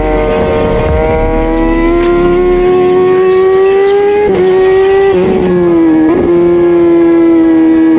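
Kawasaki ZX-10R's inline four-cylinder engine running at high revs under hard acceleration toward top speed. Its note climbs slowly, then breaks briefly three times about four, five and six seconds in, and holds steady after.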